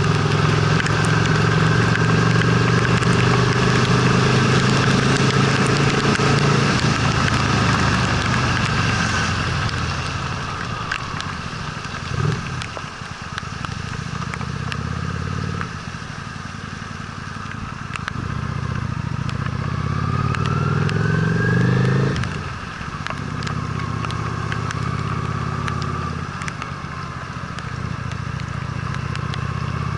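Honda Steed V-twin motorcycle engine pulling under way, its note climbing as it revs and then dropping sharply at gear changes, about twelve seconds in and again about two-thirds of the way through, over a steady hiss of wind and road.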